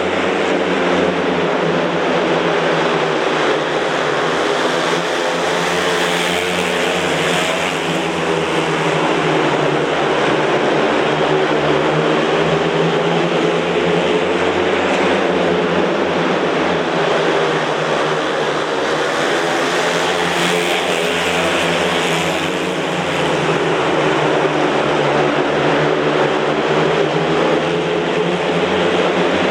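Four 500 cc single-cylinder speedway motorcycles racing. Their engine notes rise and fall in pitch as the riders go on and off the throttle around the track.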